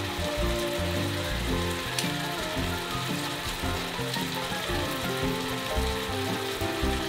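Bulgogi beef and sliced vegetables sizzling steadily in a frying pan, with background music.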